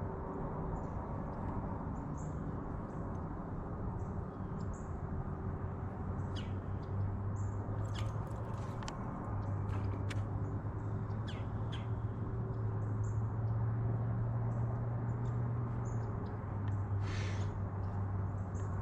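Short bird chirps scattered over a steady low hum and outdoor background noise, with a few light clicks.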